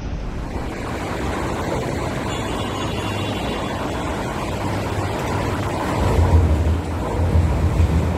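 MTR Q-train, a CRRC-built electric train, pulling into an elevated station platform: steady running noise, with a low rumble that grows louder about six seconds in as the cars come alongside.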